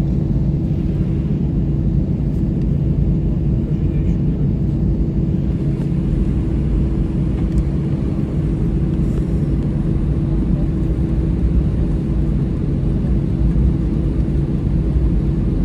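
Steady low rumble of an Airbus A320's passenger cabin on the ground, with a constant hum running through it.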